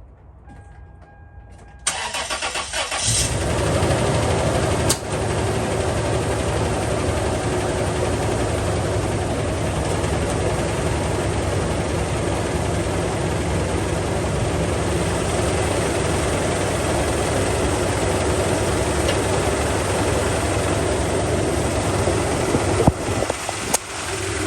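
A 2001 Toyota Tacoma's 3.4-litre V6 is cranked by the starter about 2 s in, catches about a second later and then runs steadily, with a brief dip near the end. The engine is misfiring on one cylinder, and it runs with a shake and a strange noise.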